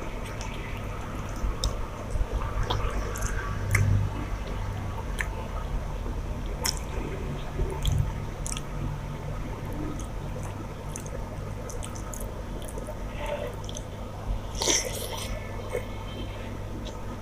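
Wet chewing and mouth smacks of a person eating rice with fish curry, a string of small irregular clicks and squelches.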